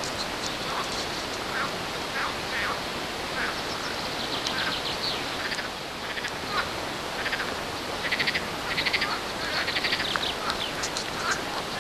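Short animal calls repeating over a steady hiss. Some are brief chirps; from about a third of the way in, others come as quick rattling trains of rapid pulses.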